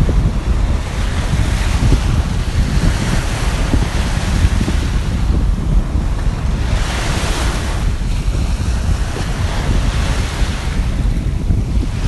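Sea surf washing in, the hiss of each wave swelling and fading every few seconds, strongest about seven seconds in. Wind buffets the microphone throughout with a heavy low rumble.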